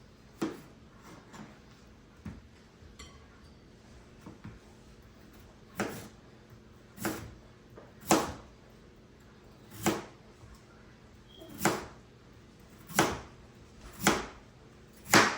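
Kitchen knife cutting raw potatoes into small pieces on a cutting board: a few light taps, then from about six seconds in, steady cuts about one a second.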